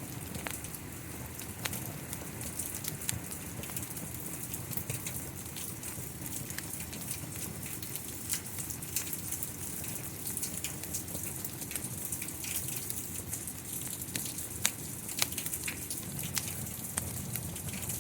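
Steady rain with a wood fire crackling, sharp pops and clicks scattered irregularly over the even hiss of the rain.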